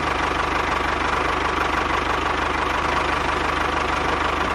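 An engine running steadily with a fast, even knocking beat and no change in speed.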